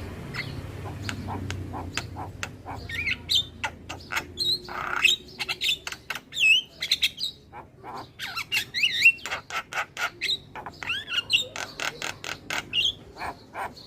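Javan myna (jalak kebo) in full song: a fast run of dry clicks and harsh squawks mixed with whistled notes that slide up and down.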